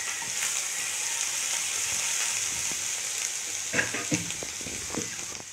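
Crushed garlic and ginger sizzling in hot oil with cumin seeds in a non-stick kadhai, stirred with a spatula, with a few light knocks about four seconds in. The sizzle eases off near the end.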